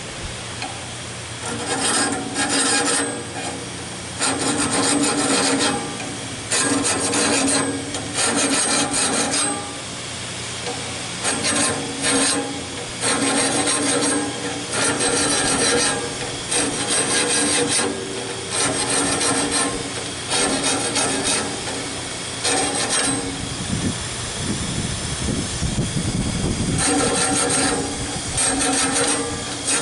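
A hand file scraping back and forth on the teeth of a sawmill band blade, to sharpen a dull blade. The strokes come in short groups with brief pauses between teeth.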